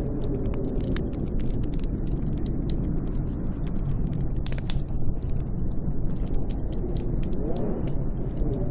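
Snowstorm wind, a steady low rumble with faint howling rises and falls in pitch, one clearer howl about seven seconds in. Scattered sharp crackles sound over it.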